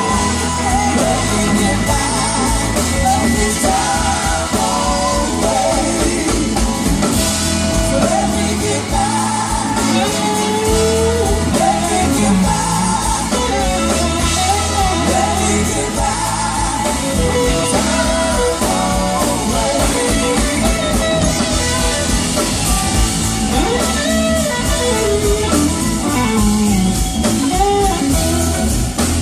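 Live band performing: singing over electric guitar and drum kit.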